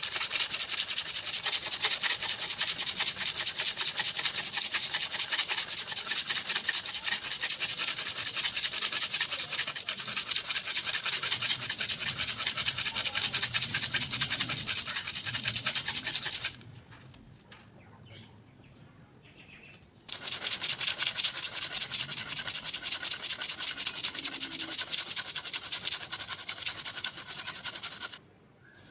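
Fast, continuous scraping of a knife blade against an abrasive surface during sharpening. It runs for about sixteen seconds, pauses for a few seconds, then starts again near the end.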